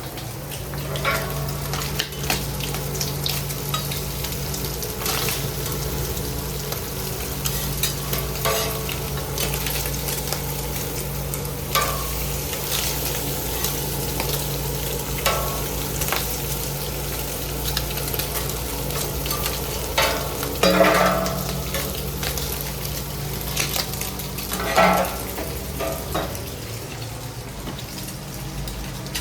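Food frying with a steady sizzle over a steady low hum, with several short knocks and scrapes of utensils, the loudest about two-thirds of the way in and again near the end.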